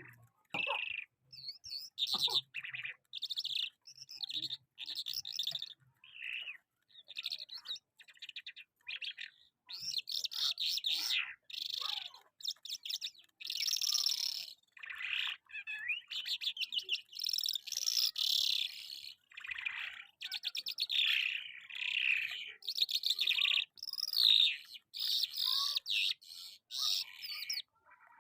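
Lark, of the kind called 'Afghani lark', singing a long, varied song made of short, rapid chirping phrases with brief pauses between them.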